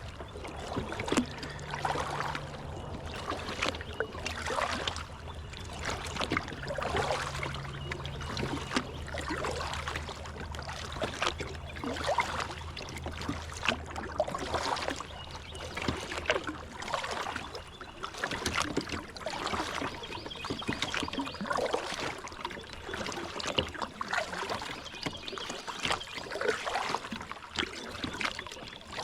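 Kayak paddle strokes in river water, a splashing dip about every second or two. A low steady hum runs underneath and stops about eighteen seconds in.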